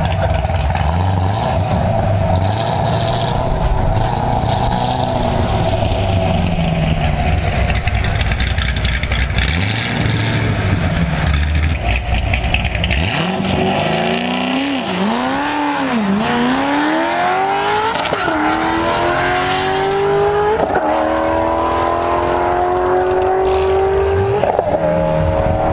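Chevrolet Corvette C6 Z06's V8 idling at the start line, then launching about halfway through on a drag-racing pass and accelerating hard. Its pitch climbs and drops back at each upshift, about four times.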